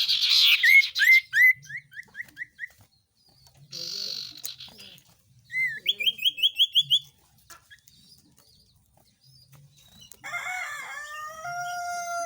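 Small songbirds calling on a bird-call lure recording: a quick run of upslurred whistled notes, a short harsh burst, then a fast string of rising notes. Near the end comes a longer held call that drops in pitch and then levels off.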